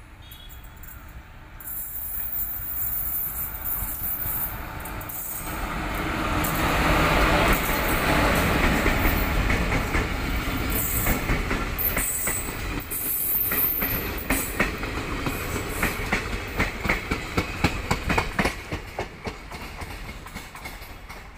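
Locomotive-hauled passenger train, led by a diesel locomotive, passing close by. The engine and wheel noise builds from about two seconds in and is loudest around seven to nine seconds. Then a long run of rhythmic wheel clacks over the rail joints follows as the coaches go by, easing off near the end.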